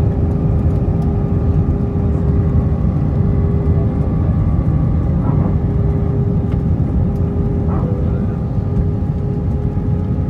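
Cabin noise inside an Airbus A320-232 in flight: a loud, steady low rumble of airflow and engines with a few steady humming tones over it.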